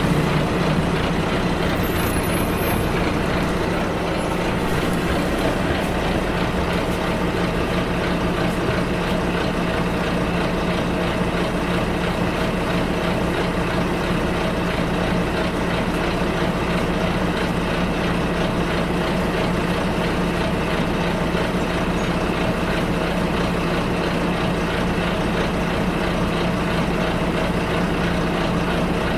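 Bus engine and road noise heard from inside the moving bus: a steady, even drone with a constant engine hum.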